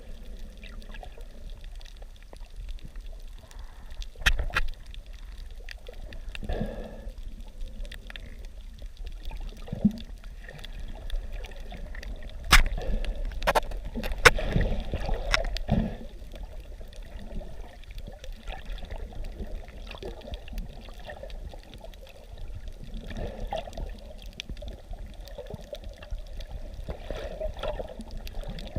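Water sloshing and splashing, with scattered sharp knocks over a steady low hum.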